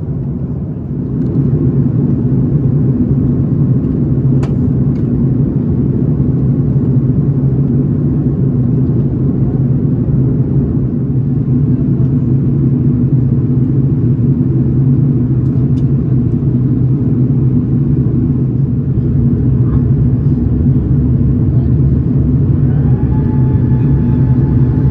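Steady low rumble of airflow and engines heard inside the cabin of an Airbus A330-900neo descending, with a single click about four seconds in. A thin steady whine joins near the end.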